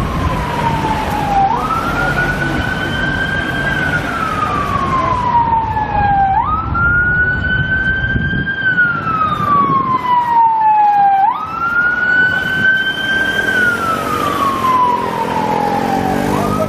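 Police car siren on a slow wail: the tone sweeps up, then glides slowly down and rises again about every five seconds, from a Metropolitan Police BMW X5 armed response vehicle, with traffic rumbling underneath.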